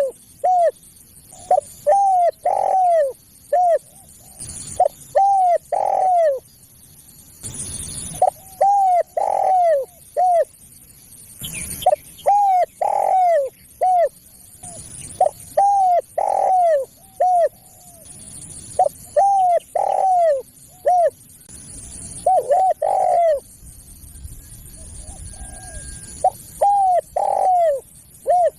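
Spotted dove (tekukur) cooing: phrases of three or four arching coos, repeated every few seconds with short pauses between, over a steady faint high hiss.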